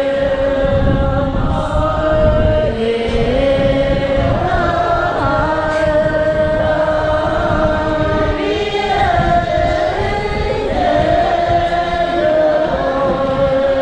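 A group of voices chanting together in a Buddhist ceremony, holding long steady notes that step up and down in pitch together, with a continuous low rumbling noise underneath.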